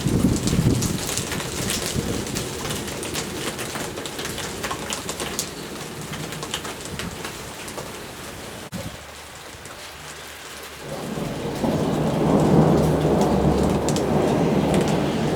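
Thunderstorm: rain pattering and hissing steadily, with thunder rumbling low at the start and fading. After a short, quieter lull, a loud, long rumble of thunder builds about eleven seconds in and carries on to the end.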